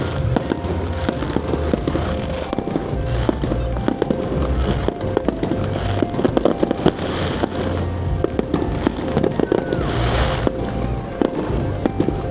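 Fireworks display: a dense run of bangs and crackles, with hissing bursts a little past halfway and again near the end, over music playing along.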